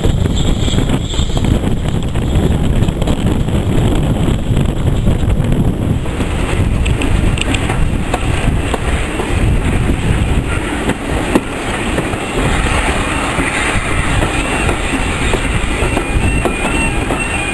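Heritage railway passenger coach running on the track: a steady rumble of wheels on rails, with wind across the microphone. A run of clicks about a third of the way in as the wheels cross rail joints and points.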